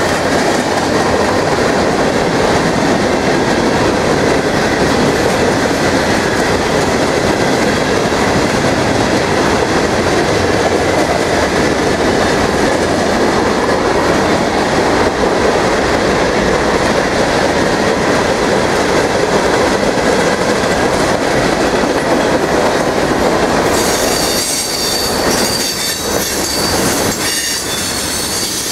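Norfolk Southern freight train rolling past at close range: a loud, steady noise of cars and wheels on the rails. Near the end it thins into separate wheel clicks over rail joints, with a high wheel squeal.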